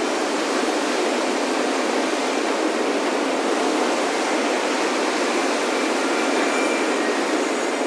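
Ocean surf washing on a beach: a steady, even rushing noise with no separate wave crashes and no low rumble.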